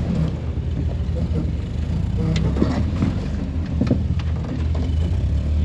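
Off-road truck's engine running steadily at low revs, heard from inside the cab as the truck crawls a steep trail, with a few short knocks and creaks from the truck working over the ground.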